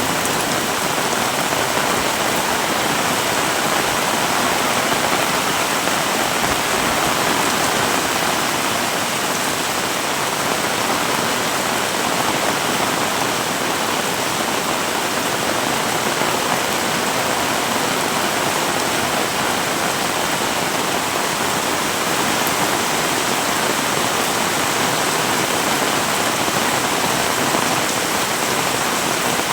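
Heavy rain falling steadily in an even, unbroken hiss.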